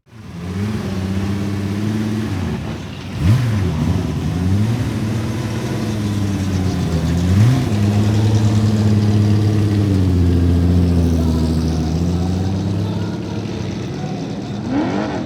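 Car engine running at a steady speed, with brief changes in revs about three seconds in and again around seven seconds.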